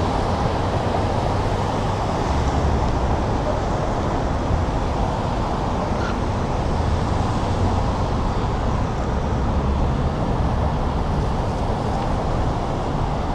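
Steady traffic and road noise heard while cycling along a city street, with a low wind rumble on the microphone.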